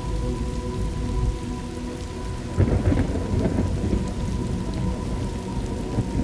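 Thunderstorm: steady rain with low rumbling thunder, and a sharp thunderclap about two and a half seconds in that rolls off over the next second or so.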